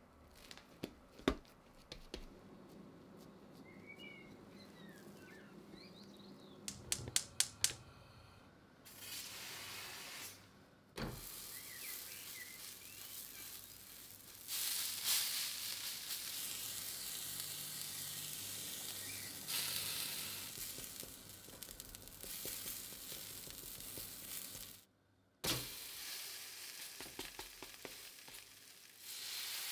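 Potato and cheese dough frying in an oiled cast iron pan, sizzling steadily from about a third of the way in, with a brief break near the end. Before that, a few light taps and clicks as the dough is handled.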